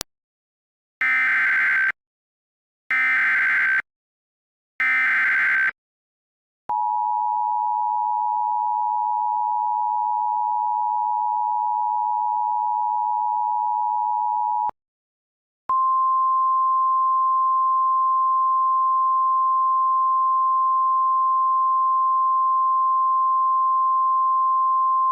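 Emergency Alert System warning tones: three short screeching data bursts, then the steady two-tone attention signal for about eight seconds, then after a brief gap a single steady 1050 Hz warning tone, announcing a severe thunderstorm warning.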